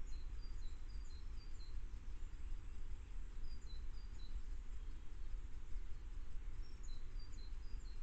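A songbird singing three short phrases of quick, high, falling notes, about a second each, over a steady low rumble.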